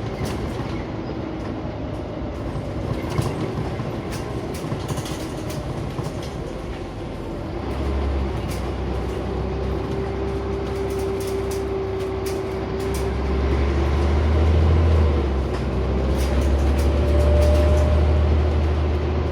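Interior of a Scania CN94UB Omnicity bus on the move: a low engine drone that swells twice as the bus pulls harder. A thin whine is held through the middle and climbs slightly near the end, with light rattles and clicks throughout.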